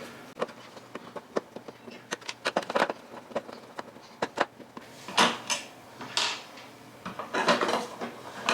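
Plastic housing of an electronic dog door being handled and prised at while opening its battery compartment: a run of quick clicks and taps, then a few short scrapes in the second half.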